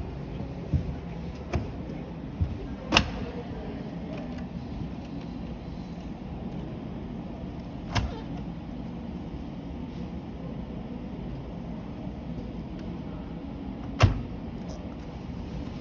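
A few sharp knocks and clicks over a steady low background hum: a run of lighter ones in the first few seconds, then louder single knocks about three, eight and fourteen seconds in.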